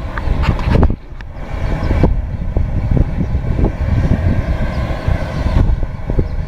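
Low rumbling water noise with scattered clicks and crackles, as picked up by a camera filming underwater; the rumble drops away briefly about a second in and again near the end.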